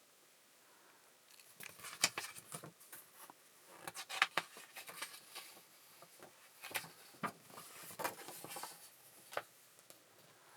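Packaging and parts of a paper creasing machine handled during unboxing: irregular rustling and sharp clicks that start about a second and a half in and stop near the end.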